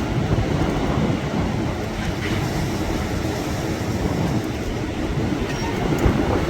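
Strong storm wind buffeting the microphone, a steady low rumble during a lull between gusts, with a gust rising right at the end. Hurricane-force winds from a deepening low-pressure system.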